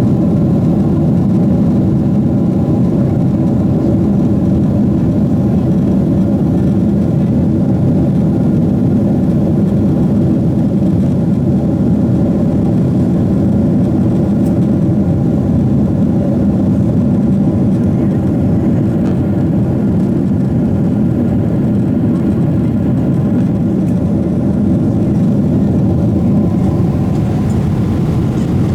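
Steady engine and airflow noise inside the cabin of a Boeing 777-300ER climbing out, its GE90-115B turbofans giving a low, even drone.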